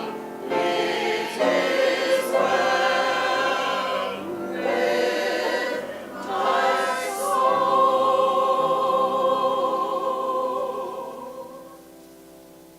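A choir singing a sacred piece. It ends on a long held chord that fades away near the end.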